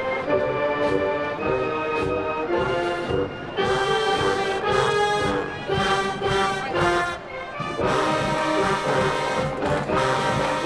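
Marching band playing its field show, brass-led with held chords and percussion pulses.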